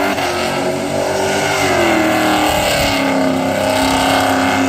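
A loud V8 muscle-car engine held at high revs, its pitch wavering up and down as the throttle is worked, with a steady rushing hiss underneath.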